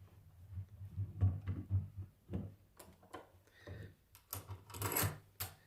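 Irregular clicks and knocks of hand tools and metal parts being handled while an alternator is worked on, with a quicker run of sharp clicks near the end.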